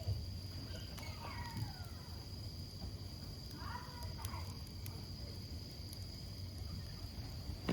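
Wood campfire burning, with a low steady rumble and a few sharp pops of the burning wood, the strongest right at the end. A steady high insect drone runs underneath, and a few short chirping calls come and go.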